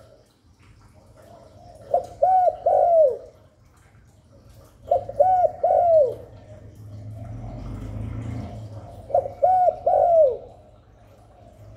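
Spotted dove cooing: three phrases, each a few quick notes ending in a longer falling coo, spaced a few seconds apart, over a low steady hum.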